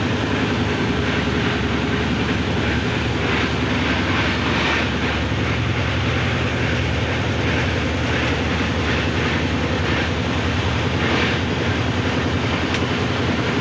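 Passenger train running, heard from inside a crowded general-class coach: a steady, loud rumble.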